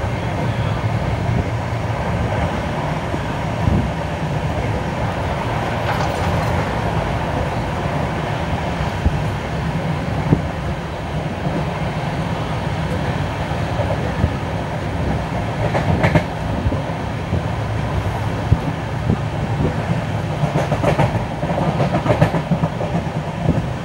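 LHB passenger coaches running on the track: a steady rumble of wheels on rail, with occasional sharp clacks and a cluster of them near the end.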